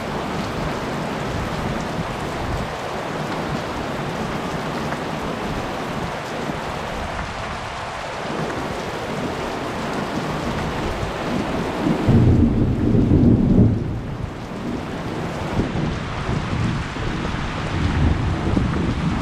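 Heavy rain falling steadily, with a loud roll of thunder about twelve seconds in lasting roughly two seconds, and another rumble building near the end.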